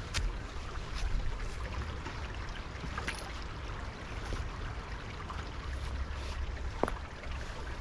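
Woodland stream running steadily, with a few sharp clicks or snaps over it, one about three seconds in and another near the end.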